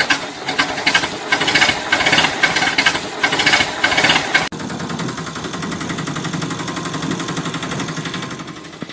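Rapid mechanical clattering, like a hammering machine. About four and a half seconds in it cuts suddenly to a steadier, evenly pulsing engine chug that fades out near the end.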